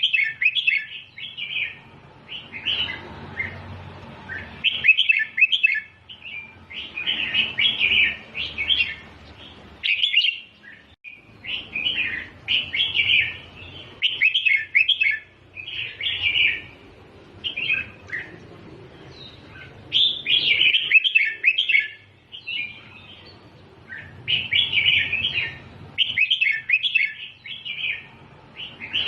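Red-whiskered bulbul singing: short bursts of chirpy, warbling phrases repeated one after another with brief pauses between them, over a faint low background hum.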